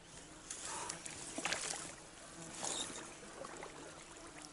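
Water splashing and sloshing in short surges about a second apart, as the angler stands in knee-deep water.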